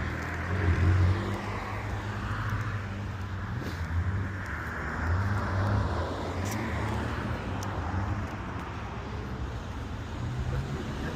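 Car engines running: a low rumble that swells a few times and then settles back.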